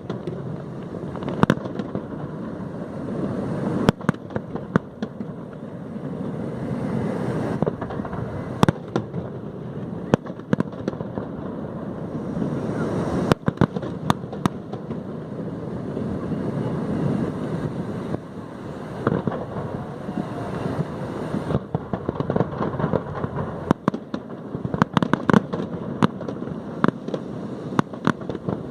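Fireworks display: scattered sharp bangs and crackling pops of exploding shells over a continuous background rumble, with a quick run of bangs near the end.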